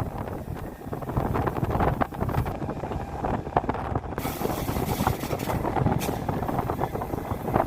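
Train running, a low rumble with rapid clattering, and a hiss joining about four seconds in.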